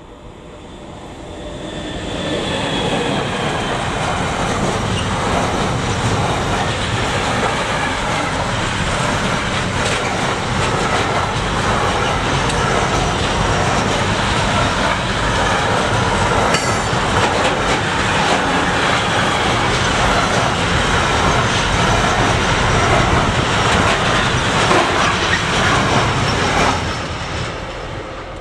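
A train passing by at speed, its wheels clattering over the rails. It builds up over the first few seconds, stays loud for about 25 seconds, then dies away near the end.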